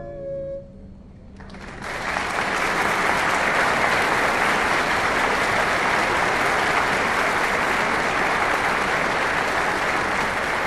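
A barbershop quartet's held final chord ends about half a second in, and after a short pause the audience breaks into steady applause that continues.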